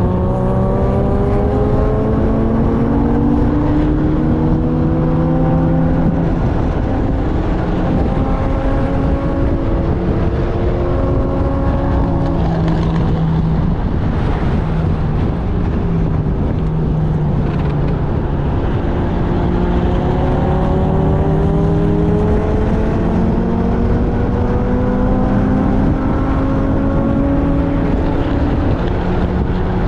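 Onboard engine of a vehicle lapping a race track under hard acceleration, its pitch climbing and stepping down at several upshifts, falling while slowing about halfway through, then climbing through the gears again. A steady rush of wind runs under it.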